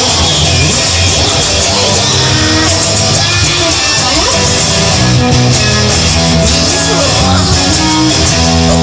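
Rock song in an instrumental break: guitar lines that bend and slide in pitch over held bass notes and drums.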